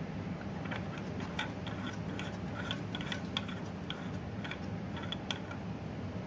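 Irregular light clicks and taps as small parts of a handheld laser welding head are handled while its protective lens is changed, over a steady low hum.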